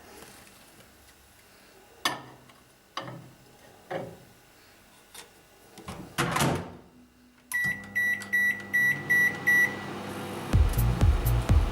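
Microwave oven beeping: a run of about seven short, high beeps, roughly three a second, lasting about two seconds, after a few scattered clicks and a brief rustling swell. Music with a steady beat comes in near the end.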